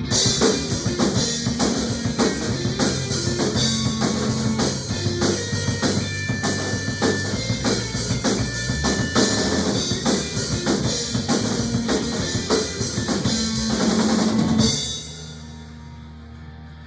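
Rock band playing an instrumental passage: a drum kit hits steadily and densely over bass notes. About fifteen seconds in the drums stop, and a quieter sustained guitar and bass tone is left ringing.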